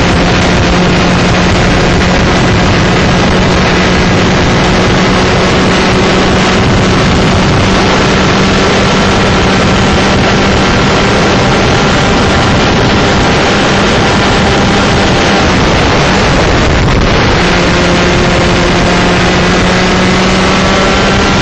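A 125cc two-stroke shifter kart engine running flat out at high revs, with heavy wind buffeting on the onboard microphone. About three-quarters of the way through, the engine note cuts out for about a second, then comes back and climbs again.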